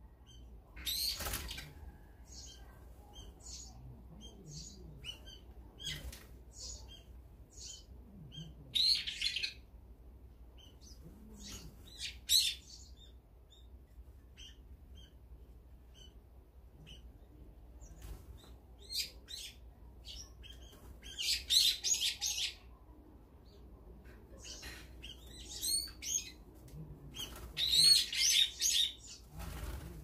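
Brown-eared bulbuls and other small birds squabbling at a feeder: several bursts of loud, shrill calls, the longest near the end, between many short soft chirps, with a few brief wing flutters.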